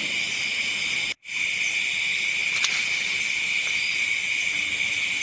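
Steady, dense chorus of insects chirping, broken by a sudden brief silence about a second in before it carries on unchanged.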